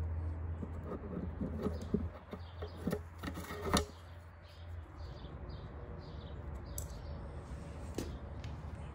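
Scattered light clicks and knocks of small engine parts and tools being handled on a workbench, the sharpest about four seconds in, over a steady low hum that fades about five seconds in.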